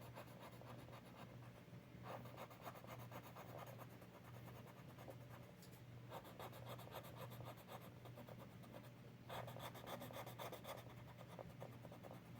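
Faint scratching of a coloured pencil shading on a colouring-book page, in three spells of quick back-and-forth strokes over a low steady hum.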